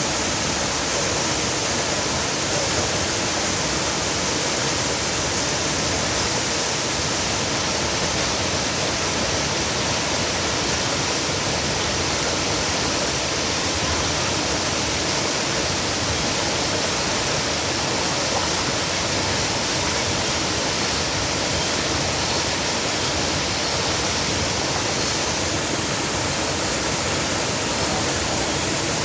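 Rushing water making a steady, unbroken roar with no let-up.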